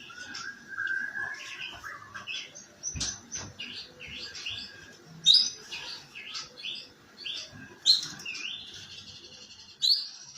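Domestic canary singing in the rough, chattering 'ngeriwik' style: a quick run of sharp chirps and short whistles, with a few loud piercing notes and a held whistle-trill near the end.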